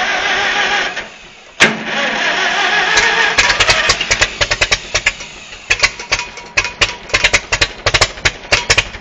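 Farmall M tractor's four-cylinder engine on a cold start: the starter cranks for about a second and stops, there is a single click, and then the engine fires and catches, running on a rough, uneven string of sharp exhaust cracks.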